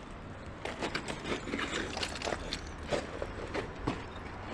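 Irregular footsteps with scuffs and scrapes on a rubble-strewn floor.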